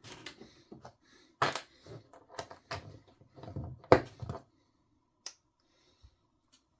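Scattered clicks and light clatter of hand tools and small metal parts being handled during RC car steering assembly, with the sharpest knock about four seconds in.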